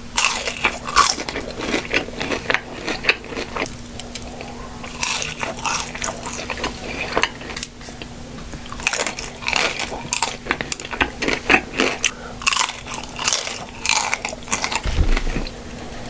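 Close-miked eating: a person biting into and chewing crunchy fast food, with many irregular crunches and smacks.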